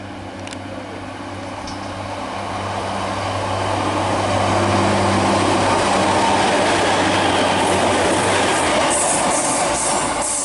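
Two coupled Class 153 single-car diesel railcars passing through the station, their underfloor Cummins diesel engines running with a steady low note. The sound grows louder as the units come past, is loudest around the middle, then eases slightly. A few short high-pitched sounds come near the end.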